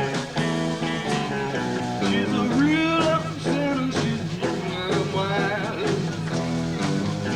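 Live bar band playing blues-rock: electric guitars, bass and drums, with a lead line wavering and bending in pitch through the middle.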